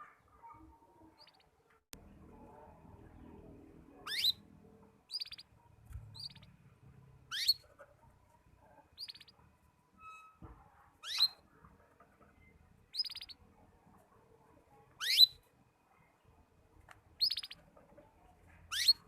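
Young canary practising its song: short, separate chirps that sweep sharply upward, repeated about every second or two with small notes between, still broken rather than a continuous song.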